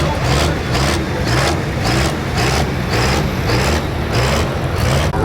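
Hot farm pulling tractor's diesel engine running hard, with a low steady engine tone and a hiss that pulses about twice a second.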